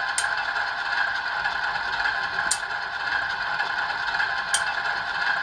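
Idling GE ES44 diesel sound from an ESU LokSound decoder, played through a model locomotive's small speaker: a steady, thin hiss-like running sound, with three sharp ticks about two seconds apart.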